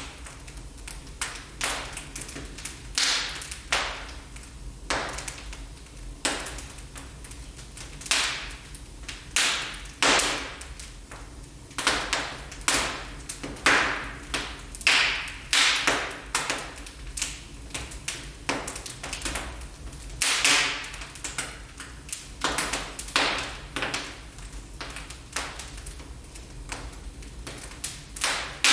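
Wood fire crackling in a fireplace: irregular sharp pops and snaps, several a second and some louder than others, over a steady low rumble.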